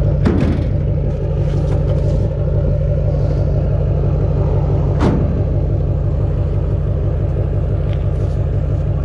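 Duramax V8 turbodiesel pickup engine droning steadily while the truck cruises, with a short sound that falls in pitch just after the start and again about five seconds in.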